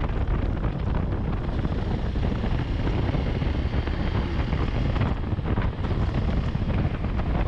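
Wind buffeting the microphone on a moving motorcycle, a steady low rumble over the bike's engine and road noise while riding.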